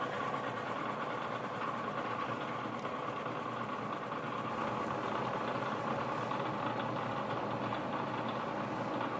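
Bridgeport milling machine running steadily under power feed, its cutter working a hole and slot into the end of a small part held in V-blocks.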